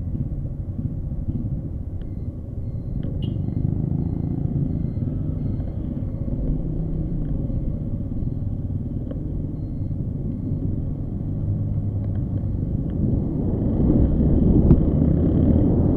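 Motorcycle engine running under way, a steady low rumble mixed with wind on the microphone, growing louder near the end.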